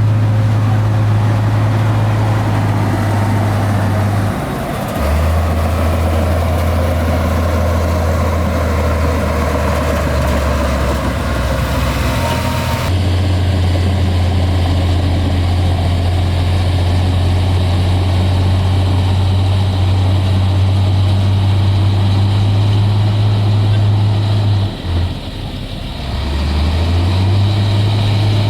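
Heavy diesel engine of earthmoving machinery running steadily. Its pitch drops a few seconds in and jumps back up about halfway. Near the end it dips briefly and then climbs again.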